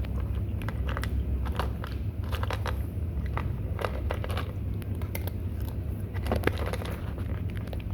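Kittens eating, with irregular crunching and chewing clicks over a steady low hum.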